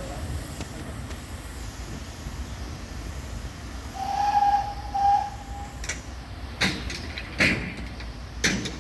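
Manning Wardle 0-6-0 saddle tank steam locomotive with a steady hiss of steam. About four seconds in, its whistle gives one longer toot and one short one. Then come four slow steam exhaust beats, roughly a second apart.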